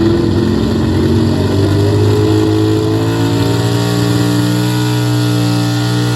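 Four-wheel-drive pulling truck's engine running hard at high revs under load, its pitch climbing slightly over the first few seconds and then holding steady.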